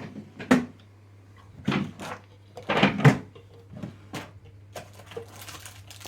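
A handful of short knocks and scrapes of things being handled in a small room, the loudest about half a second, two seconds and three seconds in, over a faint steady hum.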